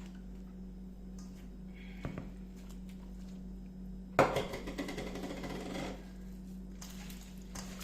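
Kitchenware being handled: a small click about two seconds in, then a sharp clack of a dish or utensil about four seconds in, followed by about two seconds of rustling, scraping handling noise and a few light clicks near the end, over a steady low hum.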